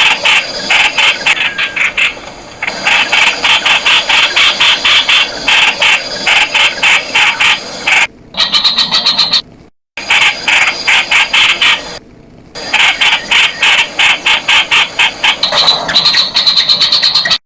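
Streak-eared Bulbul calls: quick high notes repeated many times a second, broken off abruptly several times.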